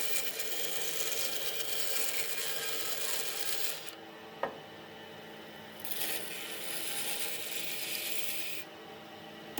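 Abrasive rubbing on wood, in two long stretches of hiss of about four and three seconds, with a pause between them that holds a single click.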